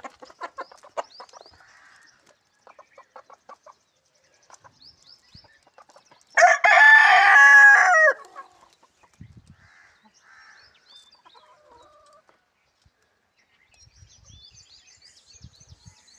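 Chickens clucking in short runs of pulses, then a rooster crowing once, loudly, for under two seconds about six and a half seconds in, followed by faint scattered clucks and chirps.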